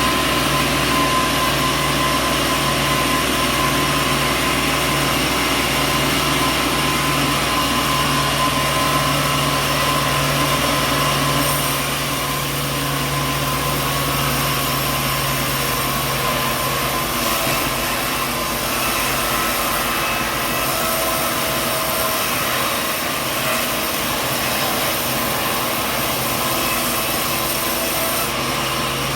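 Sawmill machinery running steadily: a loud, dense mechanical din with several steady whining tones over a low hum. The low hum eases off about twelve seconds in and fades further after about seventeen.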